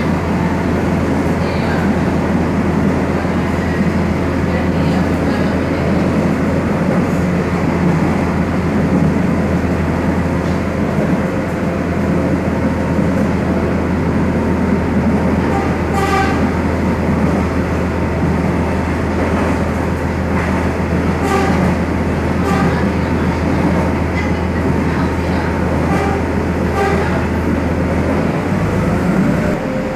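Cut Meutia passenger train running on the rails: a steady low drone and rolling noise, with scattered sharp clicks in the second half. The low drone drops away near the end.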